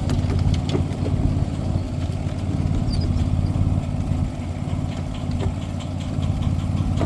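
Small engine of a ride-on scale railroad train running steadily while the train moves along the track, with scattered light ticks.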